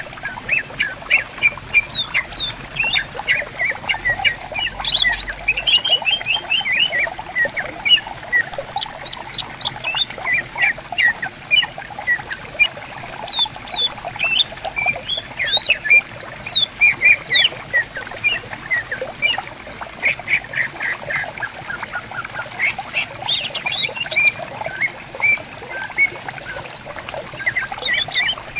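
Greater green leafbirds (cucak ijo) singing and calling back and forth in a continuous, rapid stream of short chirps and harsh slurred notes, over the gentle trickle of a clear stream.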